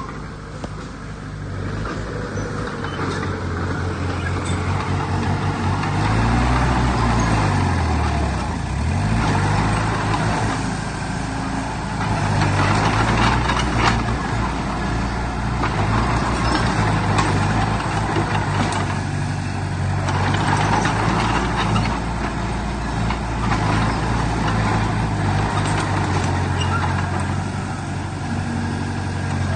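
Heavy diesel engine of earthmoving machinery running steadily under load, its pitch dipping and then climbing back about six to nine seconds in.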